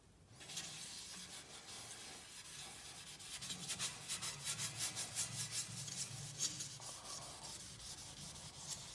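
Wet sponge dipped in wood ash scrubbing a fireplace's glass door: a gritty rubbing in quick back-and-forth strokes that become more distinct about three seconds in.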